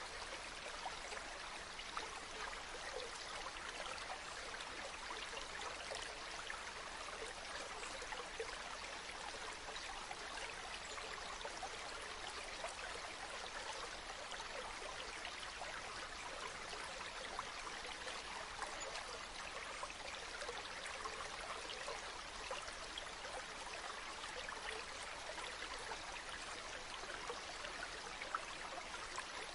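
Steady running water, like a small stream trickling, with fine splashing and no change in level.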